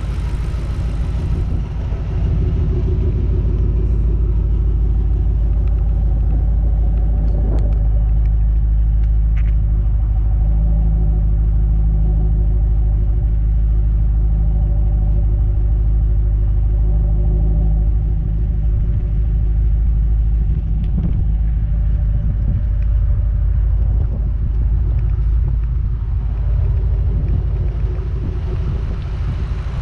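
Twin-turbocharged Ford Mustang GT's V8 engine running steadily, a low rumble with an even hum that holds unchanged throughout.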